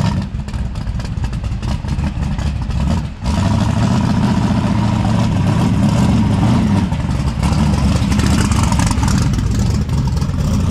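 A vehicle engine idling loudly and steadily, with a short dip about three seconds in, after which it is a little louder.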